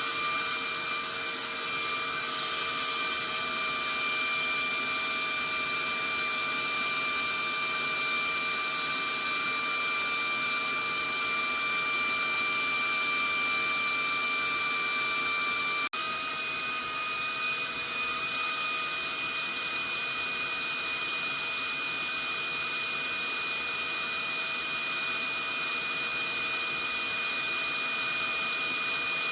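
Vacuum cleaner running steadily with a high-pitched motor whine over a rushing of air. About halfway through it cuts out for an instant and comes back slightly louder, with the whine a little higher.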